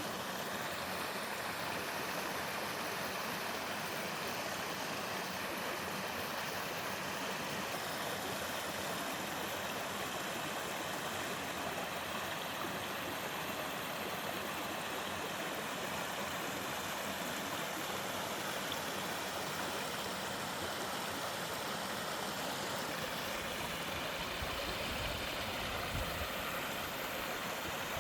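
Mountain stream spilling down a small two-tier sliding waterfall: water rushing steadily over rock. A low rumble joins near the end.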